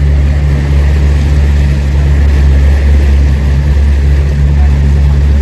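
An engine running steadily: a deep, unbroken drone under a rushing hiss.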